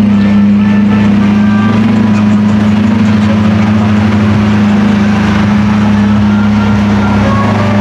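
A car engine idling, a loud steady low tone that holds level with no revving.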